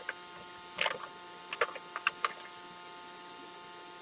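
A steady, even hum with a few short clicks and rustles: one about a second in, and a quick run of three or four around two seconds in.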